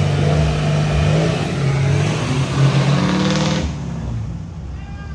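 Off-road 4x4 vehicle's engine running and revving, its pitch rising and falling; it fades down about three and a half seconds in.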